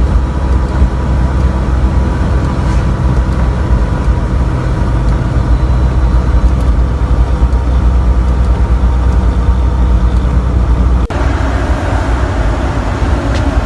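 Semi truck engine and road noise droning steadily while driving, a low hum with tyre and wind noise over it. About eleven seconds in the sound breaks off sharply and carries on with a slightly different character.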